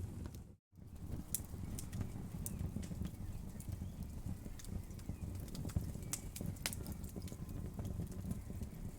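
Wood fire burning with a steady low rumble and frequent sharp crackles and pops of the burning wood. The sound cuts out completely for a moment about half a second in.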